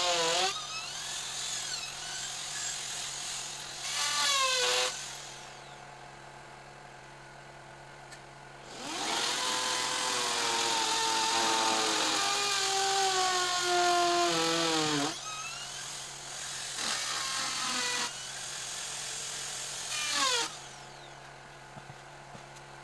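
Electric power tool motor whining in several bursts, its pitch sagging under load and falling away each time it is let go and winds down.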